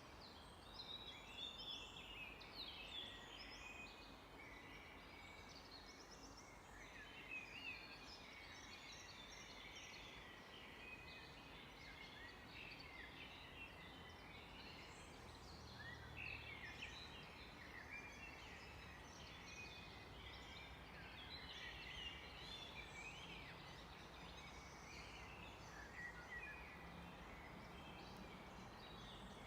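Several songbirds singing at once in a faint, continuous forest chorus of quick high chirps, trills and short gliding notes.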